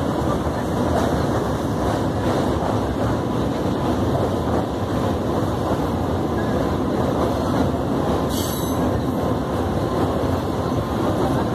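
Electric local train running across a steel truss bridge, heard from on board as a steady rumble and rattle of wheels on rails. A short, high-pitched sound cuts through about eight seconds in.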